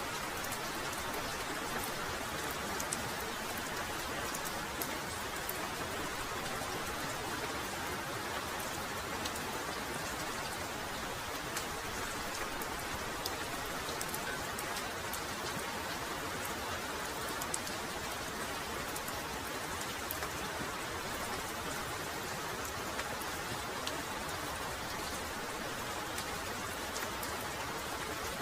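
Heavy rain falling steadily, a dense even hiss with many sharp individual drop ticks.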